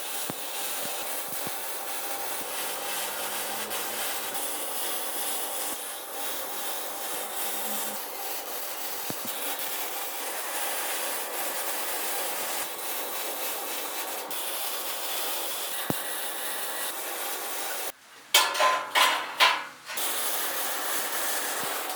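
Steady rasping, rubbing noise of a tool working material, like filing or sanding. Near the end it breaks off briefly and gives way to a few short, loud, harsh bursts.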